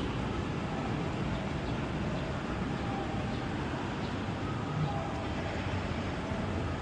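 Downtown street ambience: a steady low rumble of city traffic with no single event standing out.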